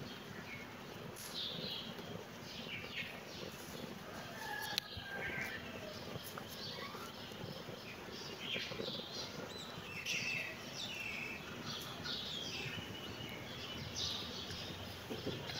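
Small birds chirping, many short high calls repeating throughout, with one sharp click about five seconds in.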